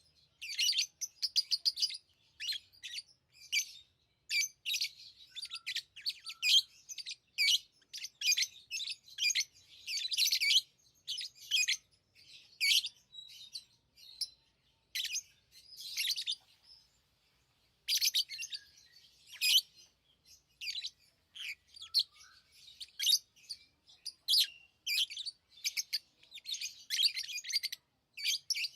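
Pet lovebirds chirping in quick, high-pitched bursts, with one short lull a little past the middle.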